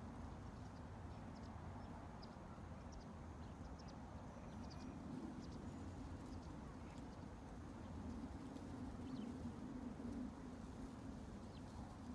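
Faint, steady low ambient rumble from a real-life background-noise recording, with scattered faint small ticks.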